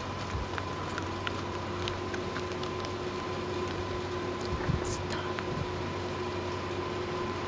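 Steady low hum of a vehicle idling, heard from inside it, with a faint high steady whine and scattered small clicks.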